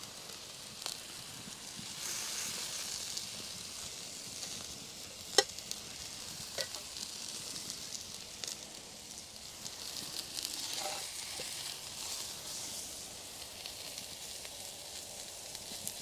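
Food sizzling on a hot cast iron griddle over a campfire, a steady hiss. A few sharp clicks stand out, the loudest about five seconds in.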